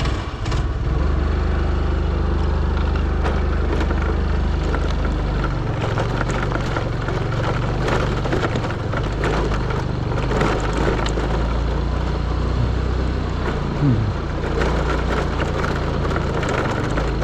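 Motorcycle engine running steadily as it rides off uphill on a rough road, with loose clatter over the top; the engine note shifts a few times along the way.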